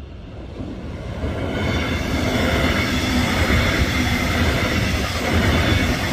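Diesel-hauled Metronom double-deck passenger train passing close by at a level crossing: the rumble of wheels on rail builds about a second in and is loud from about two seconds on, with a steady high tone over it.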